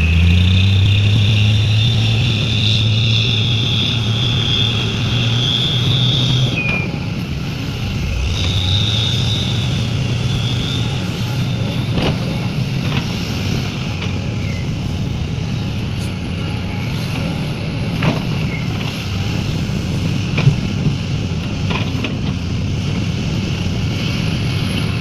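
Sumitomo SH350 excavator's diesel engine working under load, with a high hydraulic whine over the first six seconds and again briefly around nine seconds, then settling to a steadier drone. A few sharp knocks sound in the second half.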